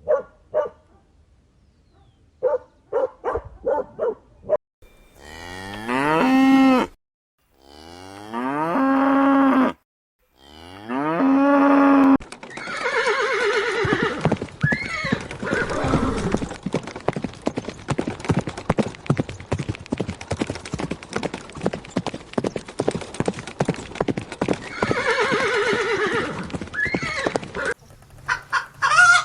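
A few short calls, then a cow mooing three times in long calls that rise in pitch. Then a horse neighs twice over a long run of quick, even hoof clip-clops.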